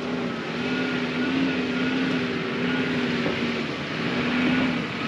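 4WD engine pulling under load up a steep track, holding fairly steady revs with small rises and dips, over the broad noise of tyres on the loose surface.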